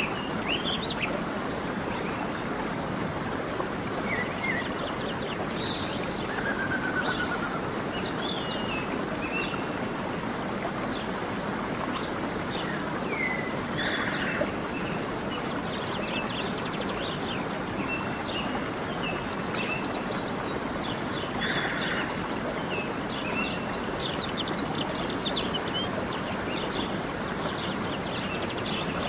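A stream flowing steadily, with several songbirds chirping, trilling and whistling over it throughout.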